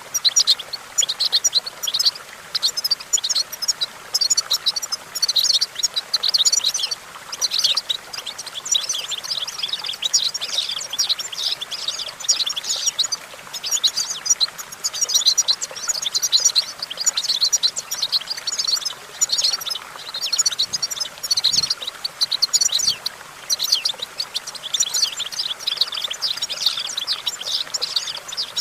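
European goldfinch singing: long runs of fast, high twittering notes broken by short pauses.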